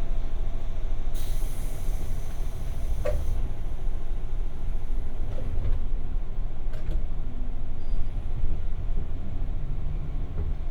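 Interior of a 201-series electric train motor car departing a station: a steady low rumble, with a hiss of compressed air from about a second in lasting about two seconds, and a single knock near its end.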